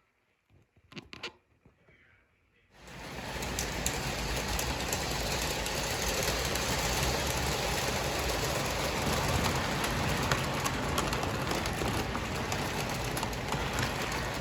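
A few faint clicks, then about three seconds in an O gauge toy train running on its track comes in: a steady motor hum with the wheels rumbling and clicking over the rails.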